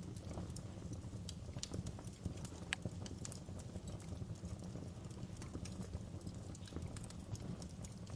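Wood fire burning in a fireplace: a low steady rumble of flames with irregular crackles and snaps, one sharper pop a little under three seconds in.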